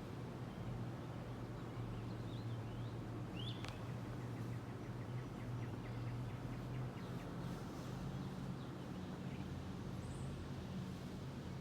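Small birds chirping now and then, with short high calls and a quick run of ticking notes near the middle, over a steady low hum.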